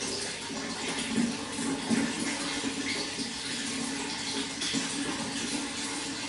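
Running water flowing steadily, with small irregular splashes.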